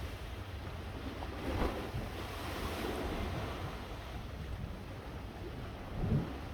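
Wind buffeting the microphone: a steady low rumble and rush, with stronger gusts about one and a half seconds in and near the end.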